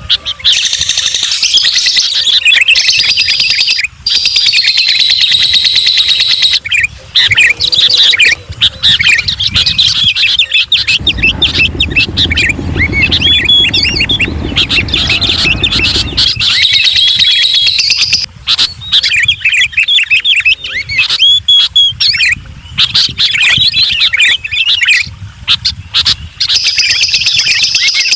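Several songbirds chirping and singing densely in high, rapid warbling phrases, with a low rumble underneath for several seconds in the middle.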